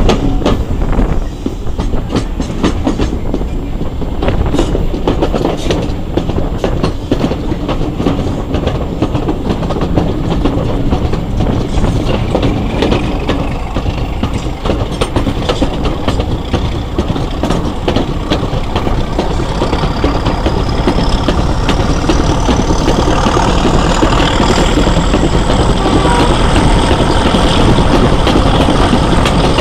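Diesel-hauled train behind a Class 31 locomotive running, heard from an open carriage window: wheels clicking over the rail joints, with a high whine that rises steadily in pitch from about halfway through.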